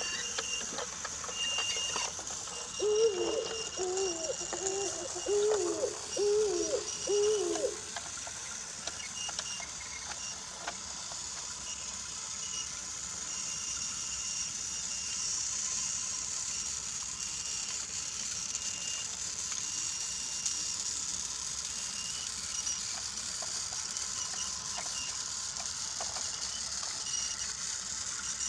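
Battery-powered Brio toy train running along wooden track: a steady high motor whine with faint clicks as it rolls. About three seconds in, six short pitched calls sound in quick succession, louder than the train.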